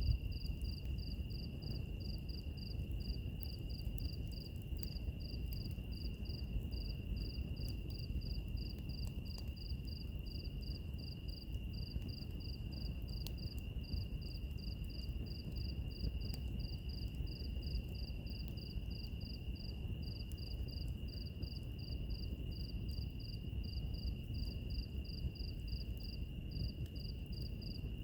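Crickets calling over a fire: one insect trills in a steady high tone while another chirps in a higher, even pulse about three to four times a second, breaking off briefly twice. Underneath is a low steady rumble of burning wood with a few faint crackles.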